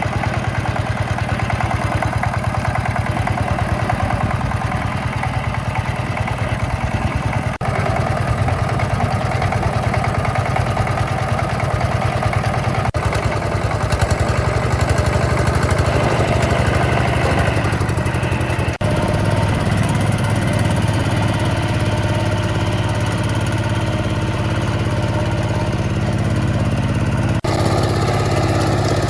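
Engine of a restored farm tiller running steadily, with brief dropouts at a few points; its note shifts slightly about two-thirds of the way through.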